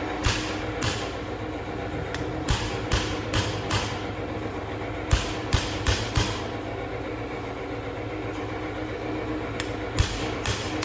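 Sharp knocks, like a hammer striking metal, come in irregular clusters of two to five over a steady mechanical hum.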